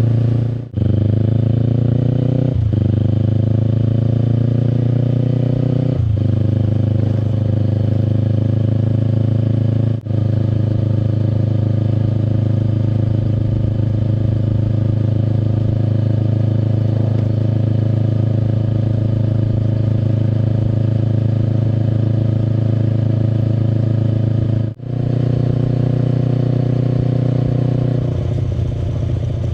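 Kawasaki Eliminator SE's 400 cc parallel-twin engine through a BEAMS aftermarket full exhaust, heard while riding. It pulls up through the gears, with a brief break in the sound at each shift in the first ten seconds, then holds a steady cruise. Near the end the throttle closes for a moment and the engine note drops lower.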